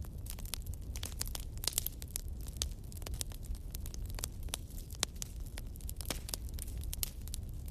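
Fire in a fireplace crackling, with many sharp, irregular pops over a low, steady rumble.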